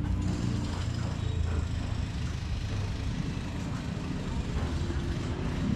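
A motor vehicle engine running, a steady low rumble.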